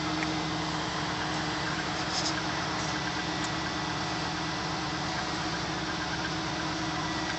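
The 5.7-litre LS1 V8 of a 2000 Pontiac Trans Am WS6 running steadily at low revs, with an even low pulse and no revving.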